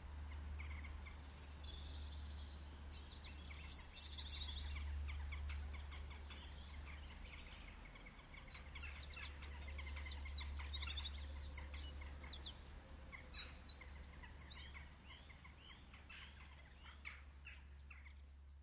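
Birds chirping and singing in quick high trills, busiest about three to five seconds in and again from about nine to fourteen seconds, over a steady low hum.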